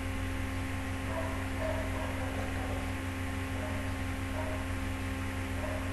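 Steady low electrical hum with an even hiss underneath: the background noise of the recording.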